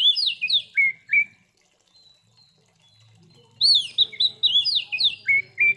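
Oriental magpie-robin (kacer) singing a loud phrase of clear whistled notes that dip and rise, the same phrase repeated after a pause of about two seconds.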